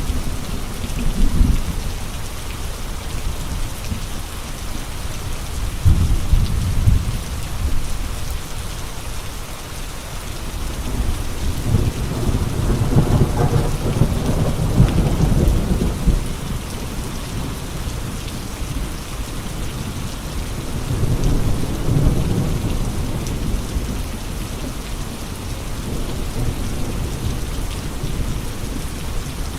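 Steady heavy rain with gusting wind. Deep low swells rise and fall a few times, the longest and strongest about halfway through.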